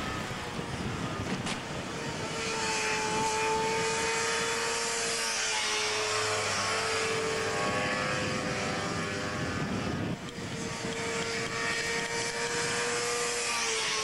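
Sport motorcycles' engines held at high revs as the bikes ride through a curve, a steady high-pitched whine that shifts in pitch now and then and dips briefly about ten seconds in.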